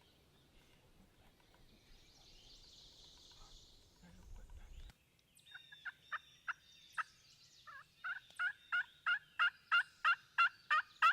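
Turkey yelping: a few spaced yelps, then an even run of about a dozen yelps at about three a second, growing louder toward the end.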